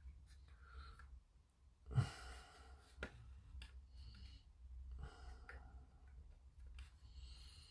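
Faint breathing with a few small clicks and knocks of plastic model parts being handled; one louder knock about two seconds in.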